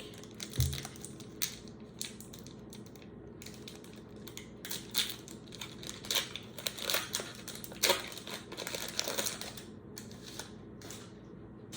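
A trading-card pack wrapper being torn open and crinkled in the hands, an irregular run of crackles and rustles.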